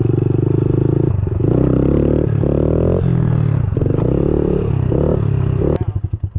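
110cc pit bike engine running, revved up and down several times, then switched off near the end, its firing pulses slowing and dying away.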